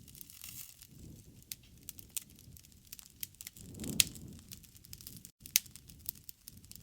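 Wood fire crackling: irregular pops and snaps over a low rush of flames, with two sharper pops about four and five and a half seconds in.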